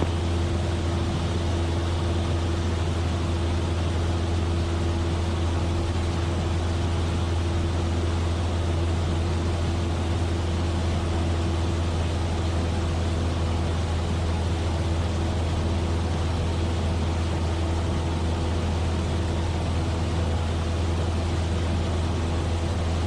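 Cessna 172F's six-cylinder Continental O-300 engine and propeller running at a steady cruise power, heard from inside the cabin as an even, unbroken low drone with a steady hum and wind hiss above it.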